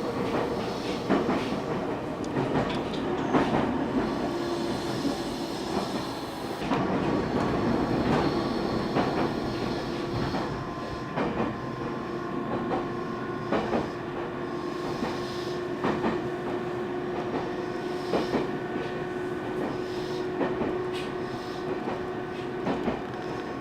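Train running along the rails: a steady rumble with a held tone and scattered clacks of the wheels passing over rail joints.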